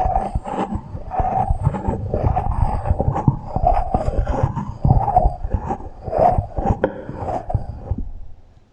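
Rapid ASMR tapping and scraping sounds run with an echo effect, then stop about eight seconds in.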